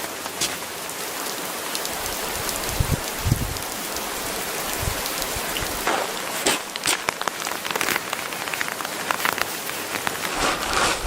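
Steady rain falling on a surface, with many scattered sharper drop hits and a few dull low thumps between about two and five seconds in.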